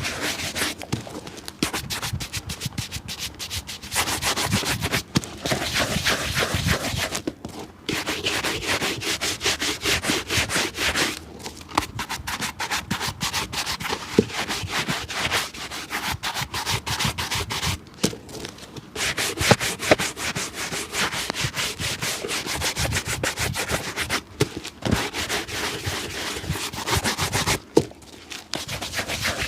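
Rapid back-and-forth scrubbing strokes on a shoe, going in quick runs with short breaks every few seconds.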